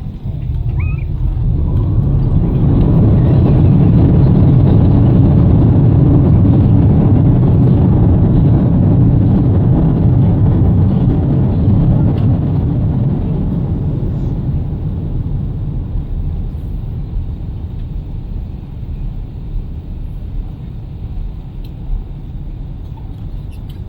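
Airbus A380 engines in reverse thrust on the landing rollout, heard inside the cabin: a deep rumble that builds over the first few seconds and holds, then fades gradually as the aircraft slows, leaving a lower steady rumble.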